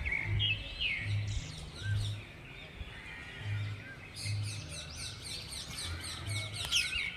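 Birds chirping: a few gliding calls in the first second and a half, then a rapid run of many short high chirps from about four seconds in. A low hum comes and goes underneath.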